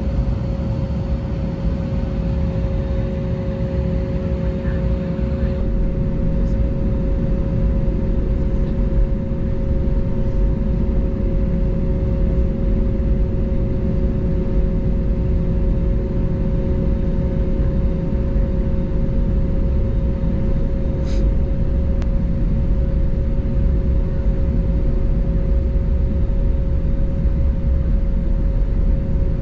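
Steady cabin noise of an Airbus A320neo in flight: a low rumble of engines and airflow with a steady hum over it. A faint click about 21 seconds in.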